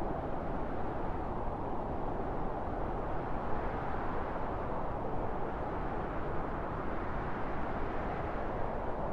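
Steady wind blowing: a low, even rushing noise that swells and eases gently.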